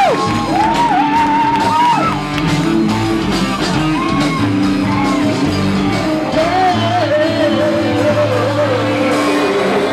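Rock band playing live, with a male voice singing over guitars and bass in a large room.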